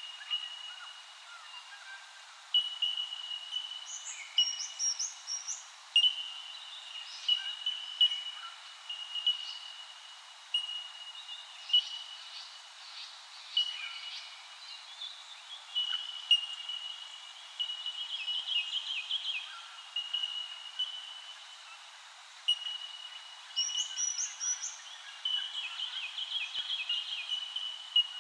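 Birds calling: a clear, high note repeated over and over at one pitch, about one to two a second, with other birds' quick chirps and short trills in between.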